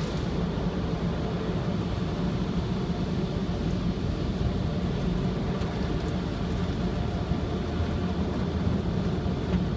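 Car wash drying blowers running steadily, a constant low rush of forced air heard from inside the car's cabin.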